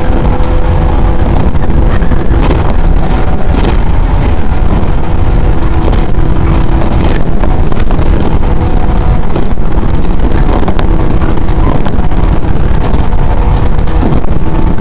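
Inside a JR 115 series electric train running at speed: a loud, steady rumble of wheels on rail and traction motors, with a faint steady hum and a few scattered clicks.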